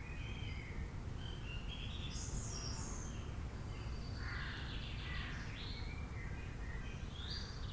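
Nature background ambience: scattered bird calls and chirps over a steady low background rumble.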